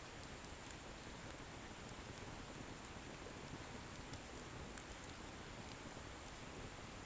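Wood bonfire burning: a faint, steady hiss with sparse small crackles and pops from the firewood.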